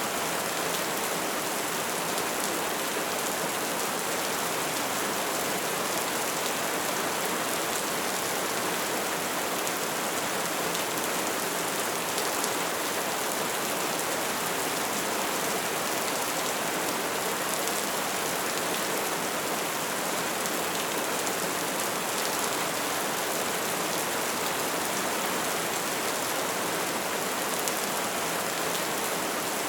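Bonfire burning: a steady hiss of flames with scattered faint crackles.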